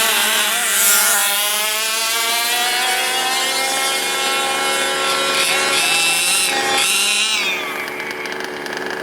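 Small two-stroke engines of large-scale gas-powered RC cars running at high revs, a buzzing whine whose pitch climbs over the first few seconds, wavers, then falls and eases off near the end.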